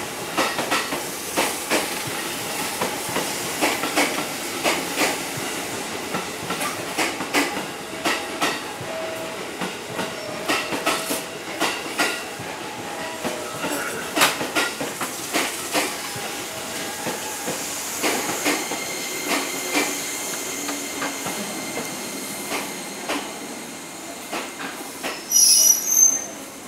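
Electric commuter train moving slowly along the platform, its wheels clacking over rail joints. A steady high whine sets in about two-thirds of the way through, and a loud, shrill wheel squeal comes near the end.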